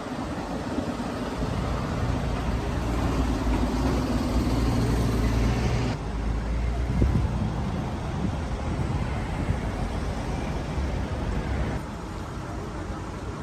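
Steady engine rumble with a broad outdoor noise, changing abruptly twice where the footage is cut, and one short knock about seven seconds in.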